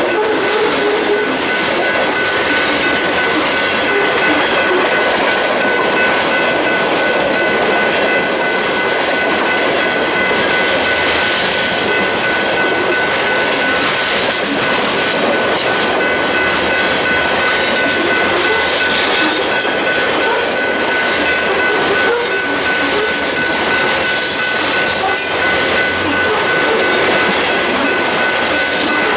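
A freight train's cars rolling past close by, with a steady rumble of wheels on rail and a steady high-pitched wheel squeal held throughout.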